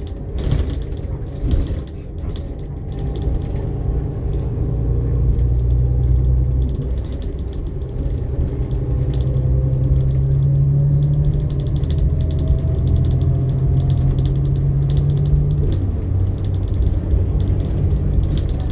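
Inside a 2015 New Flyer XN60 articulated bus under way: the Cummins Westport ISL-G natural-gas engine drones steadily through the Allison transmission, its note shifting twice, with a faint rising whine partway through. The bus body creaks and rattles throughout.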